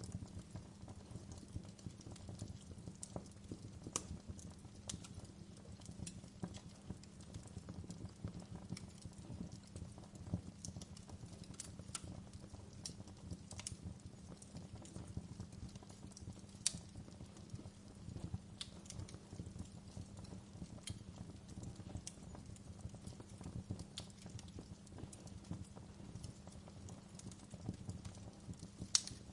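Wood fire burning: irregular crackles and sharp pops over a steady low rumble. The loudest pops come a few seconds in, about halfway, and just before the end.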